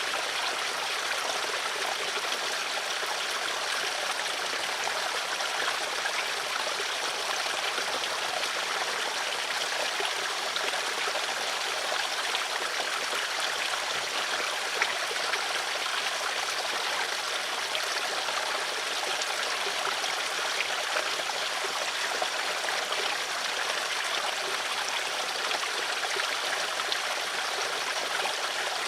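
Flowing water in a stream, a steady rushing and babbling with small trickling splashes.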